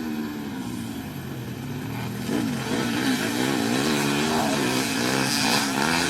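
Motocross bike engines revving hard, their pitch rising and falling quickly over and over as the riders work the throttle, getting louder about two seconds in.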